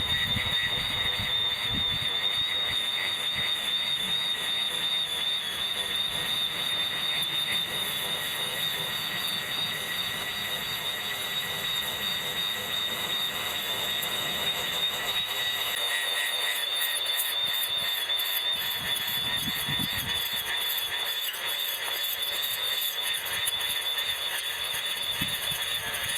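Electric grass trimmer running with a steady high-pitched whine while cutting grass, with a few brief low thuds, in footage played back eight times faster than real time.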